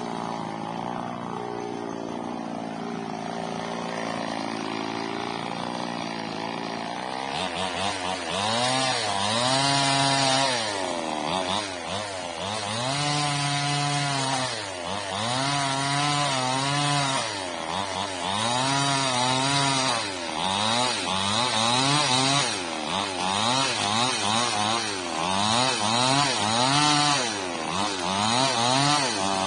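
Chainsaw trimming the old frond stubs off an oil palm trunk. It runs steadily for about the first seven seconds, then is revved up and down over and over, about every two seconds, as it cuts.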